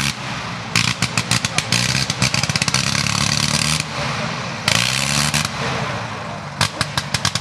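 Sopwith Camel's nine-cylinder Gnome Monosoupape rotary engine running with no muffler, its ignition cut on and off so that it fires in bursts with short lulls between them, the engine note rising and falling.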